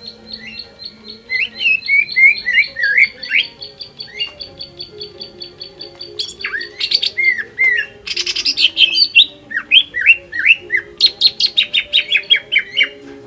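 Greater green leafbird (cucak ijo) singing a fast, varied song. It opens with a rapid run of short high ticking notes over slurred whistles, then breaks into loud rapid trills and downward-sweeping whistles after about six seconds.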